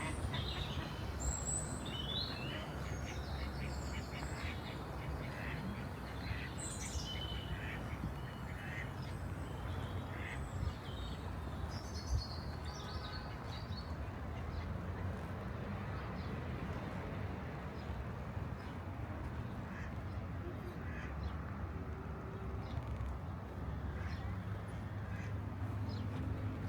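Birds calling, with short high calls clustered in the first half, over a steady low background rumble.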